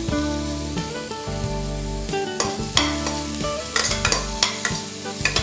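Sliced onion, coriander stems and whole spices sizzling in oil in a pressure cooker while a metal spatula stirs them, with several sharp scrapes and knocks of the spatula against the pot.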